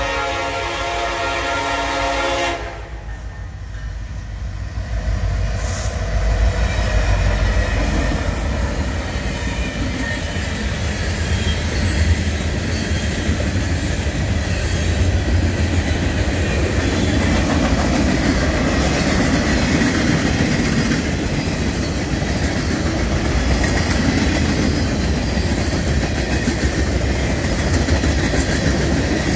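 Freight train led by a diesel locomotive (Union Pacific's Rio Grande heritage unit, an EMD SD70ACe): its multi-chime air horn sounds a chord that cuts off about two and a half seconds in, sounded for a grade crossing. The locomotives' rumble then builds as they pass, and a long string of hopper cars and boxcars rolls by with steady wheel clatter on the rails.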